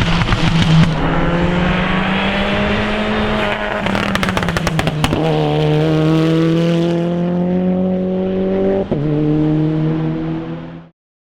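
Mitsubishi Lancer Evo 9's turbocharged four-cylinder engine under hard acceleration, its pitch climbing steadily through the gears. About four to five seconds in there is a rapid run of sharp cracks, and near nine seconds a brief dip as it shifts up. The sound cuts off abruptly just before the end.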